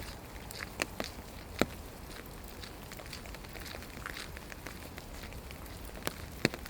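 Steady rain falling, an even hiss broken by about five sharp, irregular drop taps. The loudest tap comes about a second and a half in.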